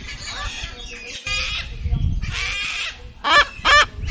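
Cockatoo calling: a run of harsh screeches, then two loud squawks in quick succession near the end.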